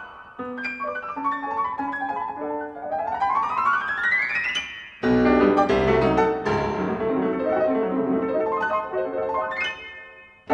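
Solo piano music: single notes, then a fast rising run, then full chords entering about halfway, with another rising run near the end.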